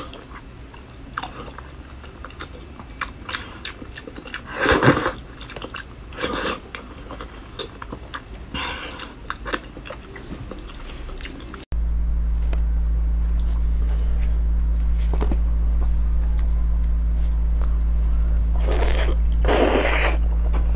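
Close-miked eating: chewing and biting of soft, sticky food, with a few louder bites. About halfway through, a cut brings in a steady low hum under the continued chewing.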